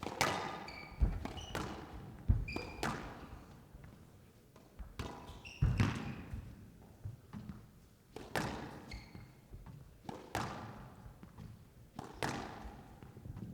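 A squash rally: sharp, irregular racket strikes and the ball smacking off the walls, with echoing tails. Squash shoes squeak in short bursts on the court floor between the hits.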